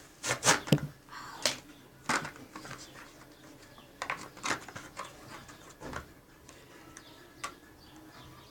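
Toy packaging being handled and opened by hand: a run of sharp clicks and short crackles, thickest in the first second and then scattered every second or so.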